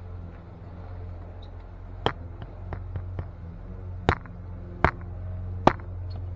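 A hand tool chopping at a tree root in garden soil: four sharp strikes with a few lighter knocks between them, over a steady low hum.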